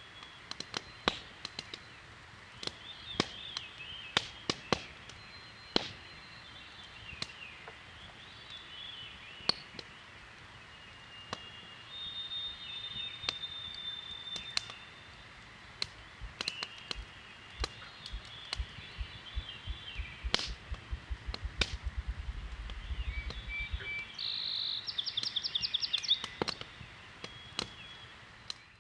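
Campfire crackling with frequent sharp pops, while songbirds sing and frogs call around it. Past the middle, a run of low, deep thumps starts slowly and speeds up over several seconds, and near the end a quick even trill sounds.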